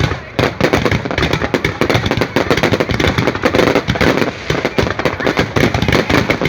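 Fireworks going off in a dense, continuous barrage: many rapid bangs and crackles a second, with no let-up.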